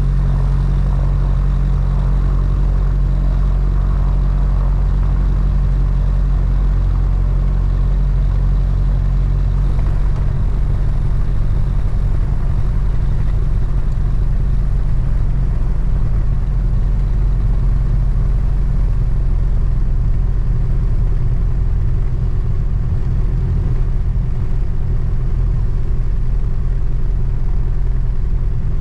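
Mooney M20J's four-cylinder Lycoming engine and propeller running steadily, a constant low drone with no change in power.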